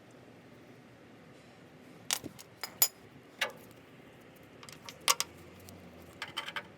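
Scattered sharp metallic clinks and clatter of small metal objects being handled: a few loud clinks about two to three seconds in, another about five seconds in, and a quick rattling flurry near the end.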